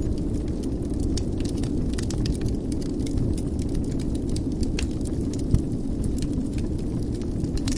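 Wood fire burning in a fireplace: a steady low rumble of flames with frequent small crackles and pops, and one sharper pop about five and a half seconds in.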